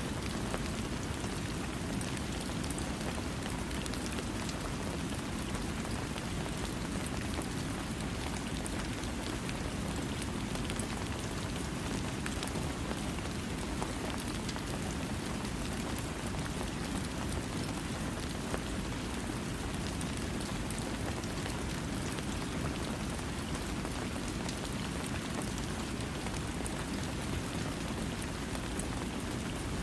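Steady rain falling, an even hiss with scattered drop ticks and a deeper rumble underneath, no thunder.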